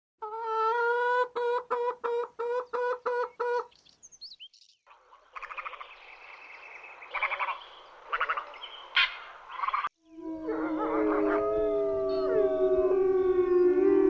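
A run of different animal calls in turn. First a single pitched call stuttering in about eight quick pulses. Then a rough, noisy stretch with a few sharp accents. Last, and loudest, several voices calling together in long sliding, overlapping tones.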